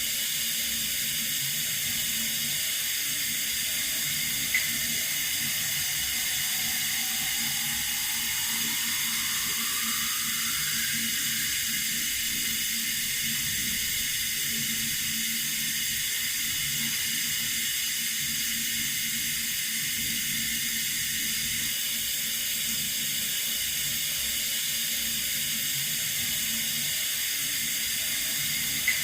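Water running steadily from a tap, an even rushing hiss. A faint tone rises in pitch for a few seconds about a third of the way in, and there are two brief clicks, one early and one near the end.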